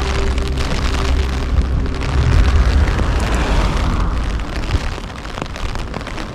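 Storm gusts hitting the microphone in a heavy low rumble over the hiss and patter of torrential rain, easing a little about five seconds in.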